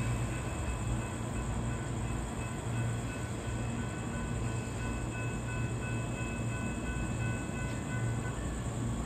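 Amtrak passenger train passing at speed: a steady rumble of wheels on the rails that swells and eases a little as the cars go by. Faint high steady tones sound from about two seconds in until near the end.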